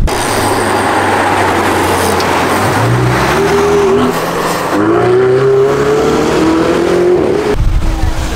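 Ferrari sports car accelerating, its engine pitch climbing, dipping briefly at a gear change about four seconds in, then climbing again. Near the end the sound cuts to a low rumble.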